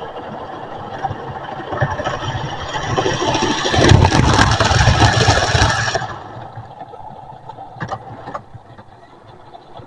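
Model train running on its track: a rattling rumble that grows louder, is loudest from about four to six seconds in as it passes close by, then drops away quickly.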